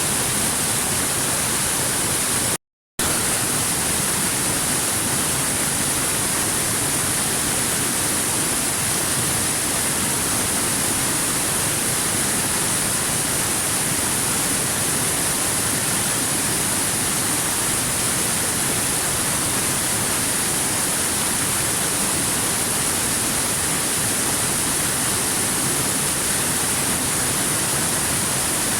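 Waterfall rushing, a steady even roar of falling water. About two and a half seconds in it cuts out to silence for a fraction of a second, then resumes unchanged.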